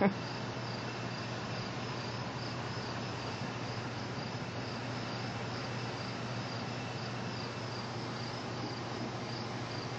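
Crickets chirping, a steady, evenly repeating high-pitched pulse over a low, steady hum.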